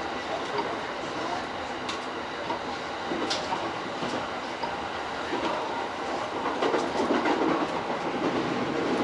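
E231-series electric train running along the line, heard from inside its front car: steady wheel-and-rail running noise with scattered clicks from the track, growing a little louder in the second half.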